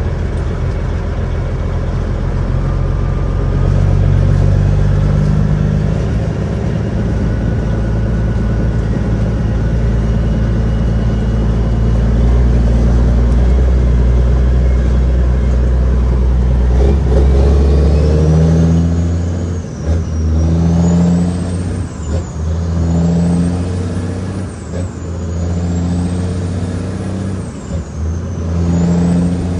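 Cat 6NZ (3406E) inline-six diesel of a loaded Kenworth W900L running under load as a steady low drone. Past the halfway point the sound turns into a pulsing rise and fall about every two seconds, with a high whine wavering up and down over it.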